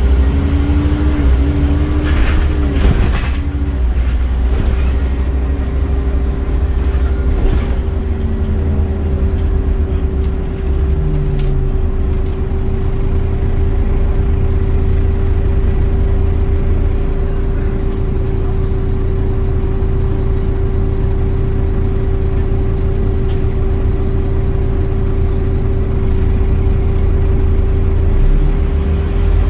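Scania Omnicity bus's engine running with a low rumble and a steady whine. Its pitch falls over the first few seconds, with a short hiss of air about two to three seconds in. It then runs on evenly, and the pitch begins to rise again right at the end.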